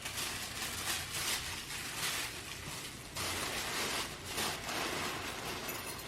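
Paper rustling and crinkling in irregular bursts as a Christmas present is unwrapped.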